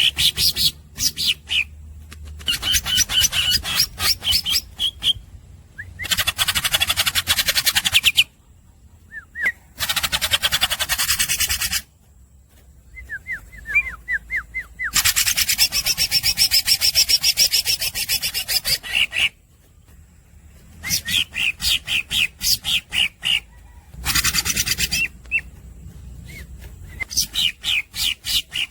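A green leafbird (cucak ijo) singing at length: runs of quick repeated chips and whistled notes alternating with harsh, rasping trills a second or more long, broken by short pauses.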